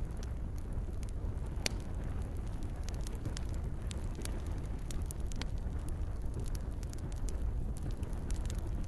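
Campfire crackling: irregular sharp pops and snaps from burning wood, one louder pop about two seconds in, over a steady low rumble.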